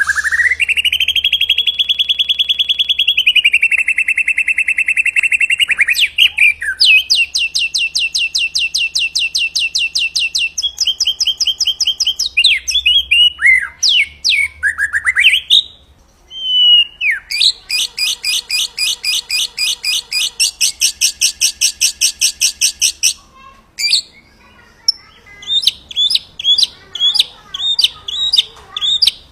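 White-rumped shama singing a song made of rapid-fire trills: long runs of fast repeated notes, broken by rising sweeps and whistles, then shorter spaced chirps near the end.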